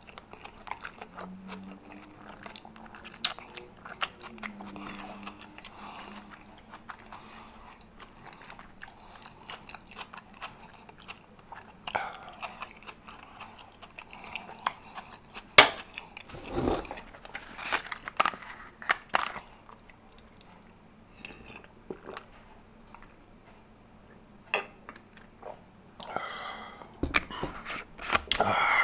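Close-miked chewing and biting of rotisserie chicken and spaghetti: irregular wet mouth sounds with many scattered sharp clicks, busiest about halfway through and again near the end.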